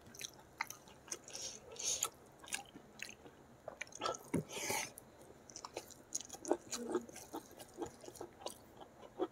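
Close-up eating sounds: wet chewing and lip smacks of rice with sambal petai, mixed with soft squelches of fingers gathering the food. A bigger mouthful goes in about four seconds in.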